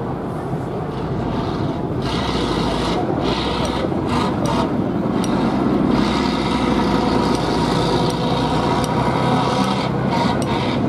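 Competition trial truck's engine running steadily under a rough, noisy rasp that grows slowly louder.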